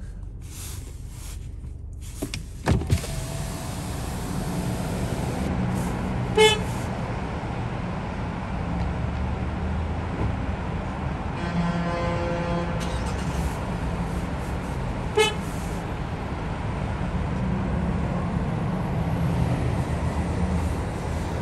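A car engine starts about three seconds in and runs with a steady low rumble. Two short beeps sound several seconds apart.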